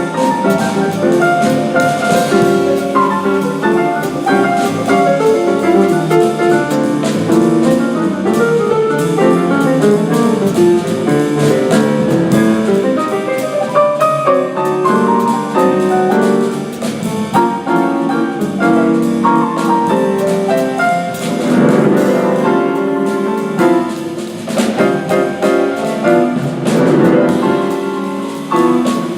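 Live jazz combo playing, with acoustic piano running fast lines over drum kit and cymbal time-keeping.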